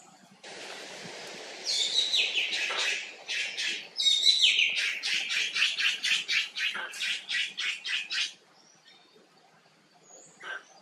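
A bird calling in a rapid series of harsh, repeated notes, several a second, that stops suddenly about eight seconds in. A short hiss comes just before the calls begin.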